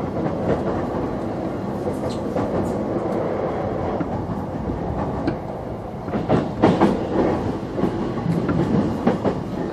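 Running sound heard inside a JR East E233-7000 series electric motor car (MoHa E233-7004) as it nears its terminus: a steady rumble of wheels on rail, with louder, irregular wheel clatter over the track from about six seconds in.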